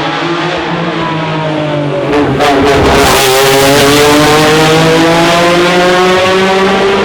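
A racing car engine accelerating hard up the hill, getting louder as it nears about two and a half seconds in, with a few sharp cracks, then holding high revs with a steadily rising pitch.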